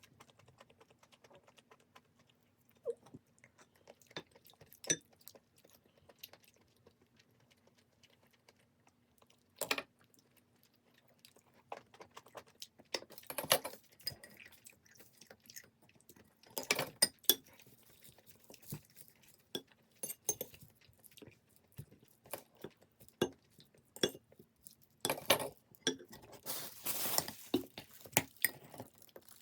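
Dishes and utensils clinking and knocking at irregular moments, sparse at first and busier in the second half, over a faint steady hum.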